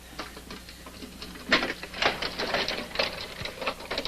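Irregular metallic clicking and clinking of hand tools on valve fittings as an oxygen tank is rigged to a scuba regulator. The clicks are sparse at first and come thick and louder from about a second and a half in.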